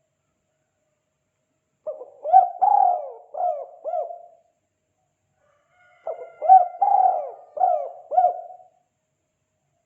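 Spotted dove (tekukur) cooing its 'kuk 2' call: two phrases of about five notes each, the first about two seconds in and the second about six seconds in.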